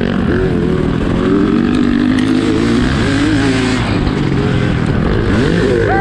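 Motorcycle engine revving up and down as it is ridden, its pitch rising and dropping several times over a steady rush of noise.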